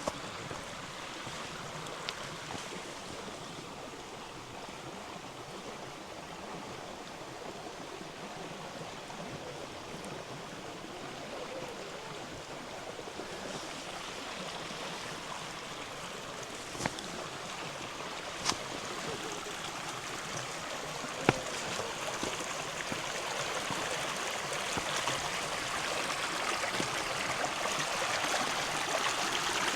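River water running over stones, growing steadily louder toward the end, with a few sharp clicks around the middle.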